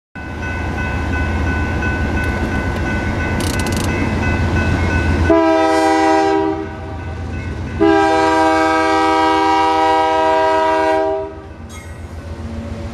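Union Pacific freight locomotive sounding its air horn for a road crossing: a short blast about five seconds in, then a longer blast of about three seconds. Under the horn, the low rumble of the diesel engine as the train pulls slowly through.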